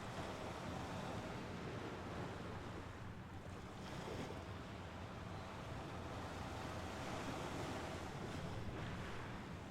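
Mediterranean Sea waves washing gently onto the shore, a steady wash of surf that swells and eases softly.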